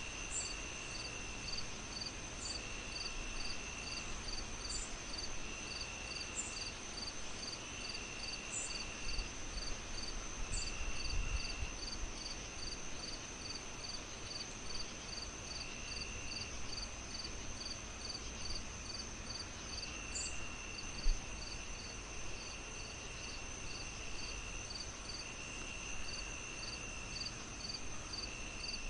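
Several crickets chirping together: a steady high trill, a fast regular pulse of about three chirps a second, and a lower trill that starts and stops every couple of seconds, over a steady hiss. A single soft thump comes about three quarters of the way through.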